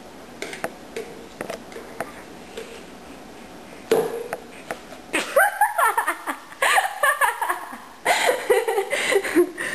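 A few faint clicks and taps, then from about four seconds in, loud high-pitched vocal sounds without words, rising and falling in pitch.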